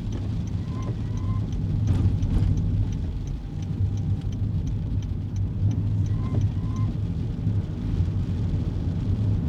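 Steady low rumble of a kei car's road and engine noise heard inside the cabin while driving on a wet road. A faint, quick, regular ticking runs under it, and a short two-part squeak comes back about every five seconds. There are a couple of light knocks about two seconds in.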